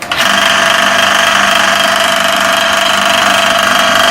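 Electric motor of a belt-driven water pump starting up and running with a loud, steady noise. The noise persists with a correctly sized belt fitted; the repairman traces it to the motor pulley, bent and slightly loose on its shaft from an over-tight belt.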